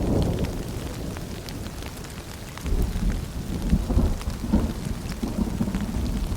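Steady rain with scattered drips, under a low rolling rumble of thunder that eases and then swells again about three seconds in.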